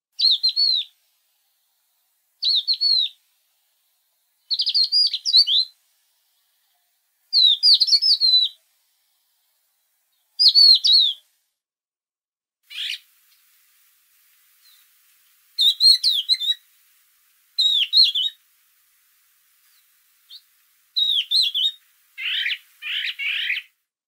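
A songbird singing short, high, warbling phrases about every two to three seconds, with silence between them. Near the end a lower, rougher call comes twice in quick succession.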